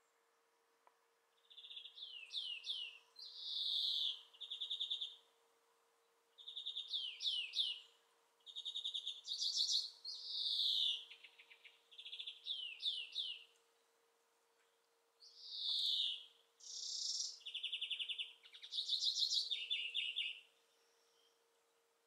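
A songbird singing in a series of varied phrases, each made of short notes repeated quickly several times, with pauses of a second or two between phrases.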